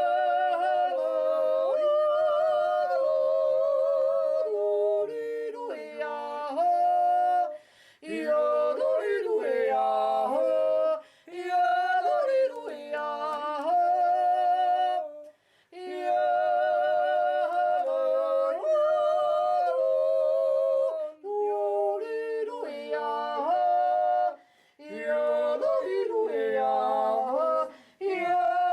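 Swiss yodeling sung a cappella, with several voices in harmony. It comes in phrases of a few seconds, with leaping yodel jumps in pitch and short breaths between phrases.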